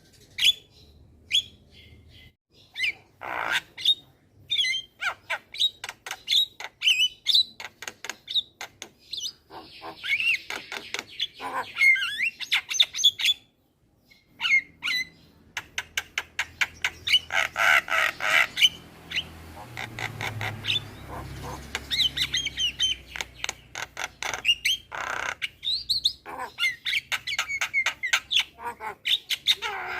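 Javan myna singing energetically: a fast, jumbled run of chirps, clicks, whistles and harsh squawks, with a brief pause about halfway through.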